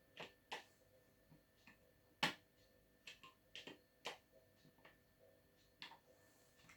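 Magnetic letters clicking and tapping onto a fridge door as a word is laid out: a dozen or so faint, irregular clicks, the sharpest a little over two seconds in.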